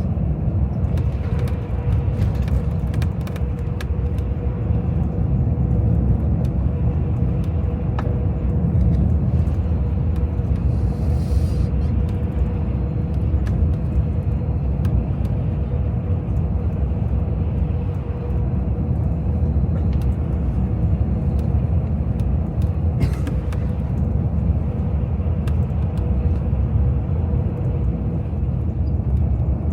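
Steady low rumble of a tour coach on the move, heard from inside the cabin: engine and road noise with a faint steady hum and a few light clicks.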